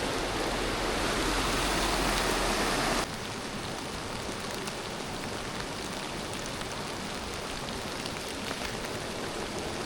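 Steady rain falling, mixed with running river water. About three seconds in the sound drops abruptly to a quieter, even rain with a few light drop ticks.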